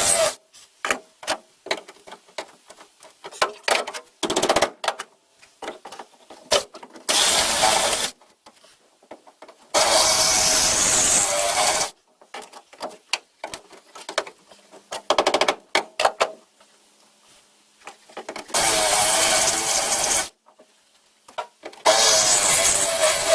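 Electric drill with a spot weld drill bit cutting into the steel floor seat pan, running in several bursts of one to two seconds, with clicks and handling knocks in the pauses between.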